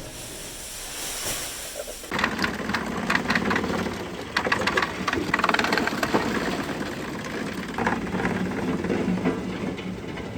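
Wood chipper running, starting suddenly about two seconds in, with an engine drone under dense clattering and cracking.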